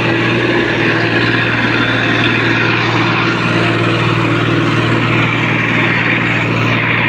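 Tractor diesel engine running steadily under load, with an even drone that holds one pitch.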